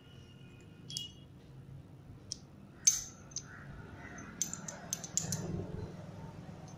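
Metal parts of a motorcycle gearbox clinking and clicking as they are handled and slid onto the gear shaft: a few scattered sharp clicks, the loudest about three seconds in, then a quick cluster of clinks near the end.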